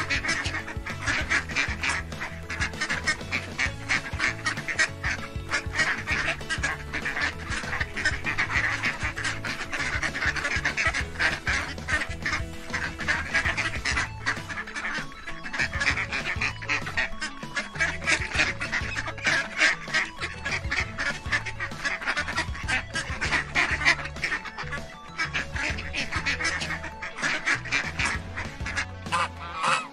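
Ducks quacking rapidly and almost without pause, over background music.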